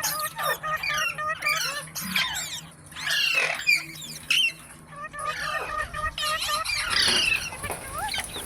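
Indian ringneck parrot chattering in quick, repeated chirps and whistles, breaking into louder harsh squawks about three seconds in and again near the end.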